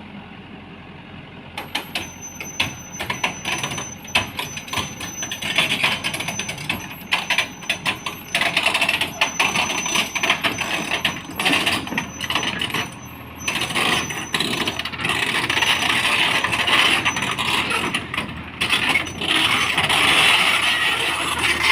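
Excavator unloading from a transport truck: its steel crawler tracks clanking and scraping over metal, with machinery running underneath. The clatter starts about a second and a half in as a rapid, uneven run of metallic knocks and goes on throughout.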